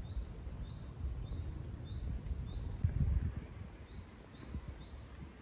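A small bird chirping in a quick string of short, high calls that pause after about two and a half seconds and start again near four seconds. Under it runs a low, uneven rumble of wind on the microphone, swelling about three seconds in.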